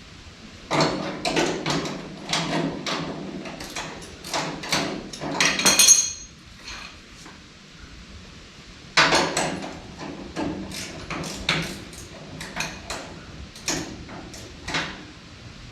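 Irregular metallic knocks and clanks of tools working on a Deutz tractor's fender mounts, a few strikes a second in two spells, the loudest near the end of the first spell with a brief metallic ring.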